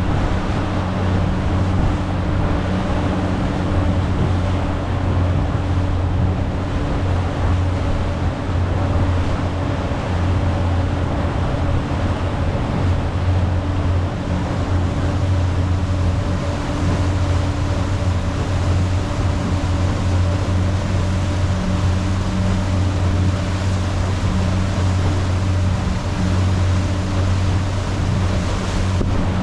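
Rigid inflatable speedboat's engine running steadily at speed, a constant low drone under the rush of water and wind.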